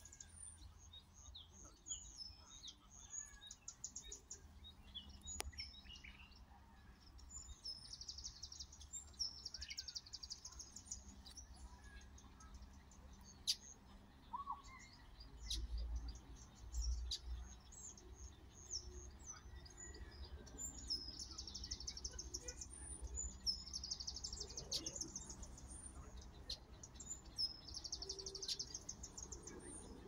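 Wild birds singing and chirping: one bird repeats a high, rapid trilling phrase several times over scattered chirps from others. A low rumble swells around the middle.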